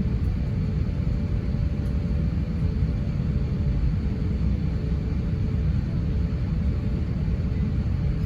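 Airbus A350-900 jet airliner with Rolls-Royce Trent XWB engines, a steady low rumble of engine and airflow noise with faint steady engine tones running through it.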